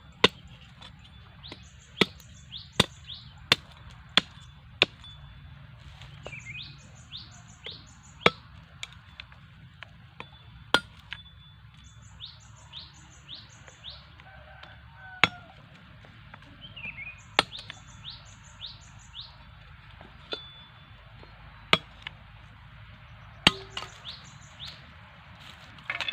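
Sharp, irregular knocks of bamboo sticks being cut and worked by hand: a quick run of them over the first five seconds, then scattered single ones. Between them a bird calls again and again in short runs of four or five quick rising chirps.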